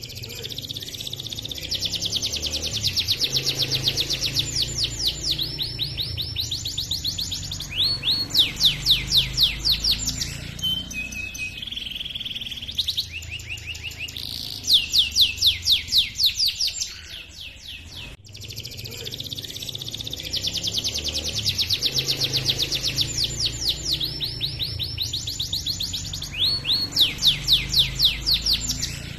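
Domestic canary singing a long rolling song of fast, rapidly repeated chirping trills. The same song passage starts over about eighteen seconds in.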